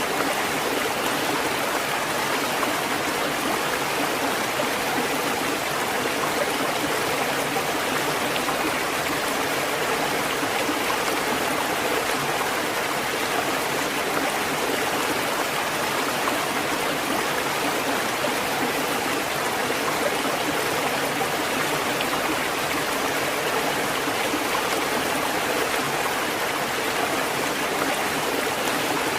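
Steady rushing water, a continuous even wash without the rise and fall of breaking waves.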